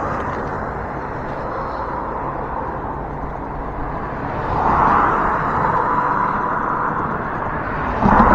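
Road traffic noise from cars on a busy road, with one vehicle passing close and swelling louder about five seconds in.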